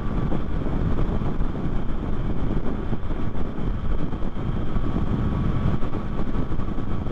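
Steady wind rush over the microphone mixed with the running of a 2024 Yamaha MT-09's inline-three engine at highway cruising speed.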